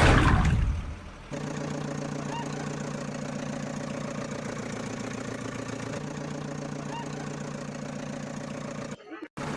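A loud sweeping whoosh that falls in pitch, then a steady idling engine sound with a regular low pulse that cuts off abruptly near the end.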